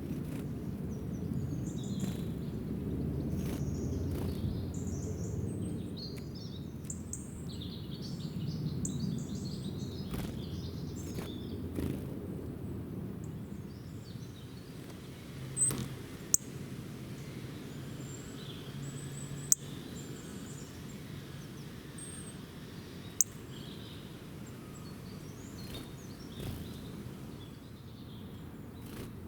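Small birds chirping and twittering, busiest in the first half and sparser later, over a steady low outdoor rumble. A few sharp clicks stand out in the second half.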